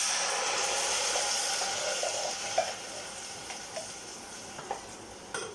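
Tinned tomatoes poured into a hot pan of sautéing onion, garlic and celery, sizzling. The sizzle starts suddenly and loud, then dies down over the next few seconds, with a couple of light clicks.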